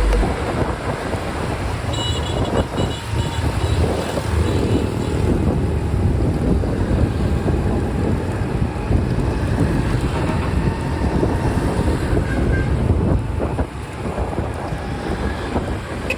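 Highway traffic and wind noise heard from a moving motorbike: a steady rumble of engines and tyres with wind buffeting the microphone. A brief high tone sounds about two seconds in.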